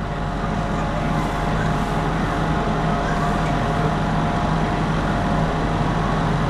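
A steady mechanical drone with a low hum, like a motor or engine running.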